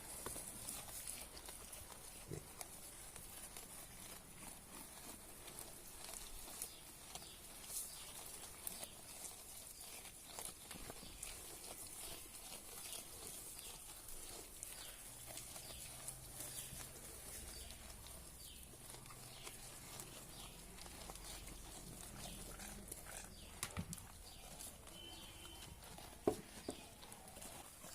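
Black Bengal goats eating fodder from the hand: faint chewing and rustling of leaves, with scattered small clicks and a sharp knock near the end.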